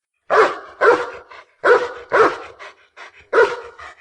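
A dog barking: five loud, sharp barks, roughly in pairs, with a few softer short barks between them.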